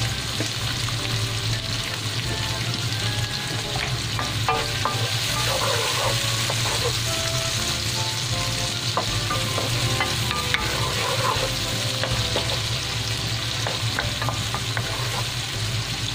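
Chopped onion and garlic sizzling steadily in hot oil in a nonstick wok, freshly topped up with cooking oil, while a wooden spatula stirs them with scattered light scrapes and taps against the pan.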